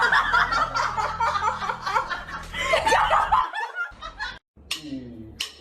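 People laughing over a steady low hum, cut off about three and a half seconds in. After a short gap come two brief sounds that fall in pitch.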